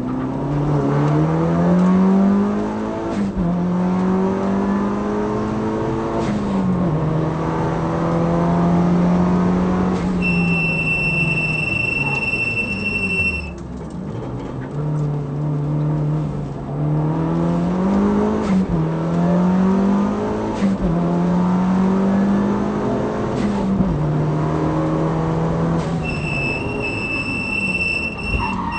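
Mitsubishi Lancer Evolution's turbocharged four-cylinder engine at full racing pace, heard from inside the cabin. The revs climb and drop back with each gear change, and ease off briefly about halfway through. A steady high-pitched tone sounds for about three seconds twice, about a third of the way in and again near the end.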